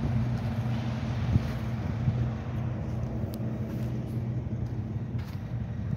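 Truck engine idling with a steady low hum, and a sharp knock about one and a half seconds in.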